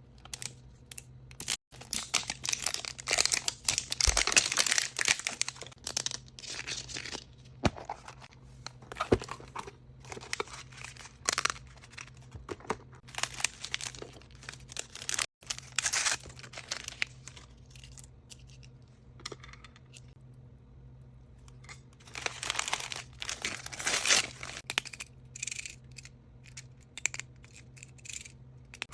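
Mystery surprise toy packaging being torn open and crinkled by hand, in uneven bursts of rustling with a few sharp clicks. There is a short lull about two thirds of the way through.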